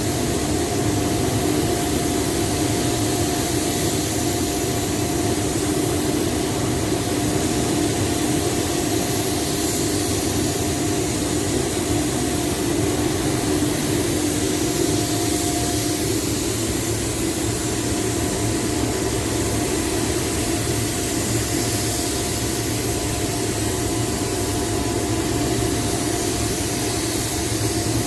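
Car spray-painting equipment running continuously: a steady hiss over an unbroken machine hum.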